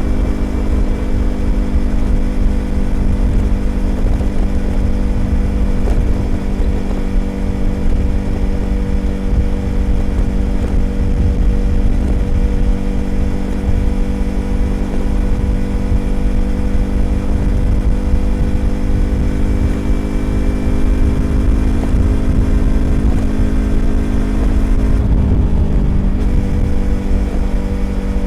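Yamaha YZF-R25's 250 cc parallel-twin engine through an aftermarket Prunus exhaust, running at a steady cruising pitch under a low wind rumble. About 25 seconds in the pitch shifts briefly, then settles again.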